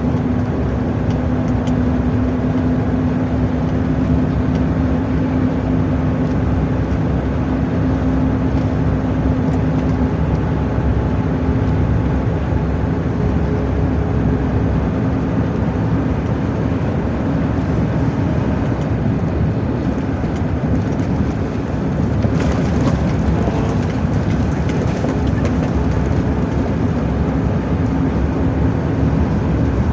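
Truck engine and road noise while driving: a steady drone with a low, even hum. The noise dips briefly a little past twenty seconds in, then comes back with more hiss.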